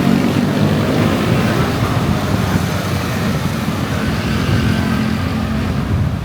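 Traffic noise: vehicle engines running with a steady low rumble.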